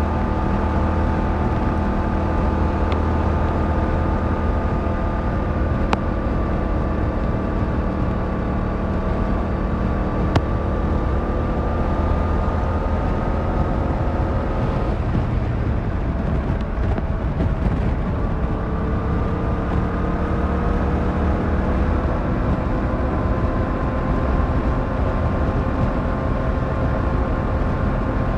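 Yamaha MT-07's 689cc inline-twin engine running at steady road speed under a rush of wind and road noise. The engine note sinks slowly, fades into the wind noise for a few seconds past the middle, then comes back and climbs gently.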